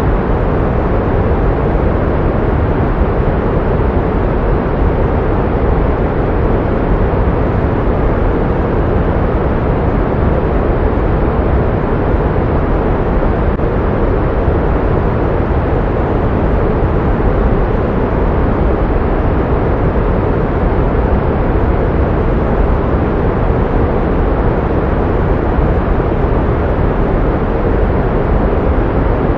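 Steady pink noise: an even, unbroken hiss, fuller in the lows and softer in the highs, with no change throughout.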